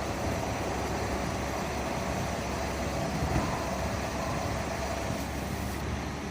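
Steady vehicle engine noise with a low rumble, running evenly without sudden sounds.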